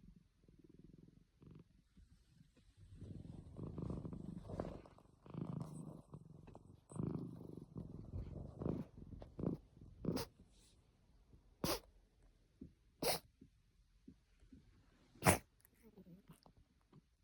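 Domestic cat purring close up, loudest in the first half. The purring gives way to four short, sharp sounds spaced a second or two apart, the last the loudest.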